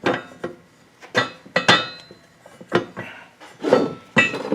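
Steel parts knocking and clinking together in irregular sharp strikes, about eight in all, each with a brief metallic ring, as the press and kingpin are set up.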